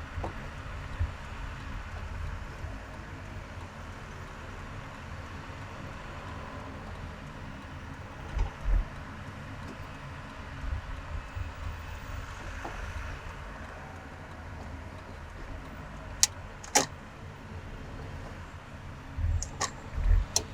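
Car driving in traffic, heard from inside: steady road and engine noise with occasional low thumps, and a few sharp clicks near the end.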